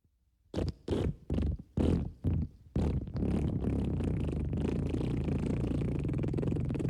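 Fart sound effects: a quick run of about five short farts, then one long, low fart starting about three seconds in.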